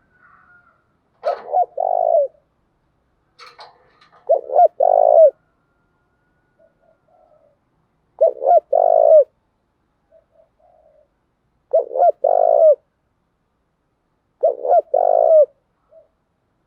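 Spotted dove cooing: five call phrases a few seconds apart. Each is one or two short notes followed by a longer coo.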